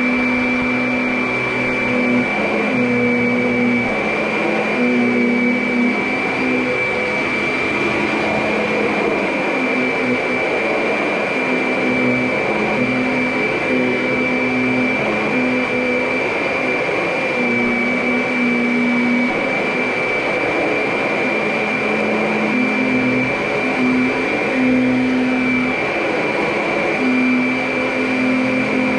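Vacuum cleaner running steadily, with a constant high whine. Under it a lower motor hum keeps stepping back and forth between two close pitches every second or two as the load on it changes.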